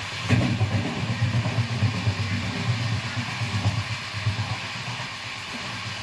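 Passenger train running, heard from inside the coach: a low, uneven rumble, with one sharp knock shortly after the start.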